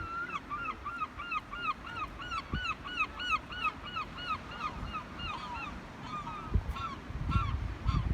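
A gull calling a long run of quick, repeated yelping notes, about three or four a second, that thins out into a few scattered calls near the end. Some low rumbling comes in near the end.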